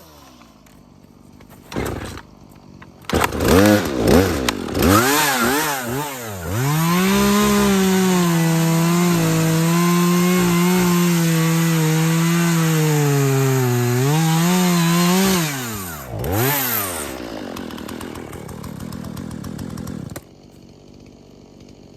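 Husqvarna 240 two-stroke chainsaw blipped a few times, then held at full throttle for about nine seconds while cutting through a trunk, its pitch sagging under load near the end. It revs again, idles briefly and drops away about twenty seconds in. The cut severs the tree from its base.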